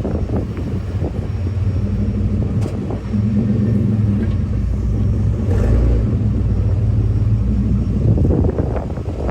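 A pickup truck engine's low, steady exhaust rumble, growing louder about three seconds in and easing off near the end.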